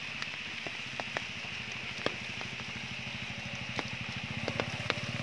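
Steady rain pattering, with scattered sharp ticks of drops, over a low steady hum.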